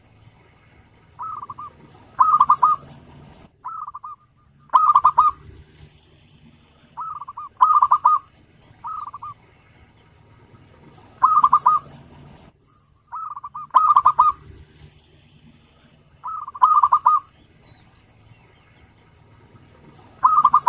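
Zebra dove (perkutut) cooing in repeated phrases every two to three seconds. Each phrase is a short note or two followed by a longer rolling, trilled coo.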